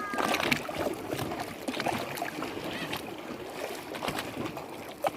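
Lake water lapping and sloshing, with many small irregular splashes.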